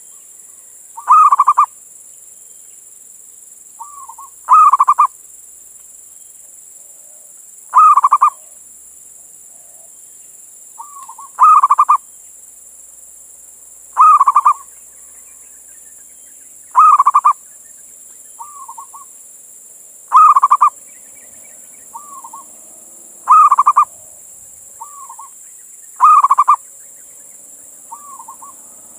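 Male zebra dove (perkutut) cooing its rolling call over and over, one loud phrase about every three seconds, with fainter, shorter coos in between.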